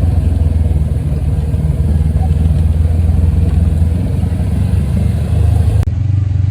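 Side-by-side UTV engine running steadily under way, a deep low drone with little change in revs.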